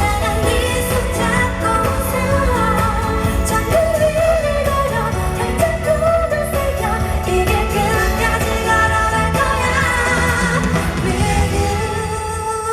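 Live pop concert music: a female singer singing a melody over a full band through the arena sound system, recorded from the audience.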